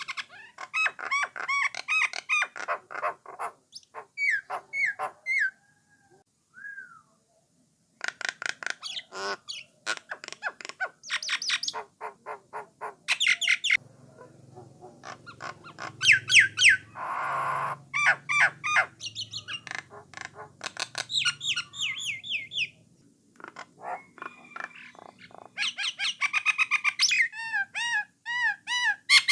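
A myna singing in long runs of rapid, repeated whistles and chatter, with short pauses and one harsher, noisier call about two-thirds of the way through.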